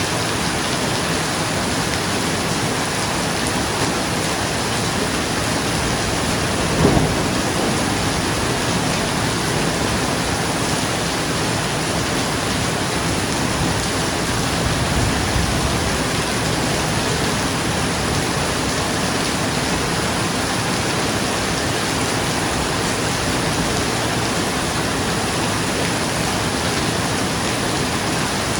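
Steady heavy rain drumming on a roof. A short, sharp thunderclap comes about seven seconds in, and a softer roll of thunder follows about halfway through.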